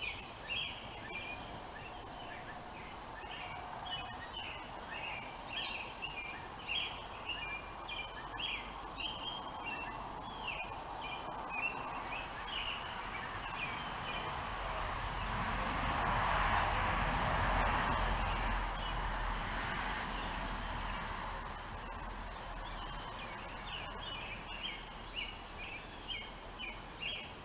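Woodland ambience: a small bird chirping over and over in short quick notes, with a rushing noise that swells and fades in the middle.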